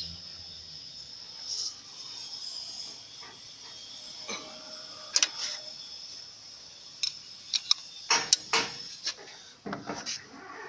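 Scattered sharp metallic clinks and knocks of steel tools and a cylinder-sleeve puller being handled and fitted in an engine block, several in quick succession in the second half. A steady high-pitched tone runs underneath.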